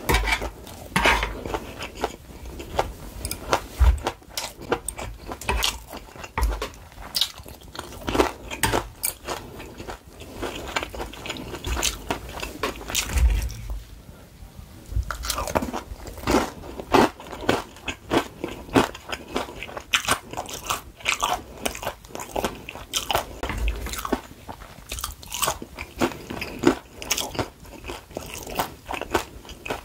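Close-miked biting and chewing of crispy battered fried peppers: irregular crunches of the fried batter, with a short lull about fourteen seconds in.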